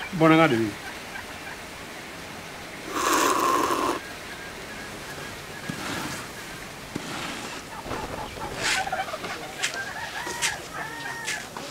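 Birds calling: a loud call that falls steeply in pitch near the start, a loud harsh call about three seconds in, then a run of short calls that rise and fall in pitch in the last few seconds.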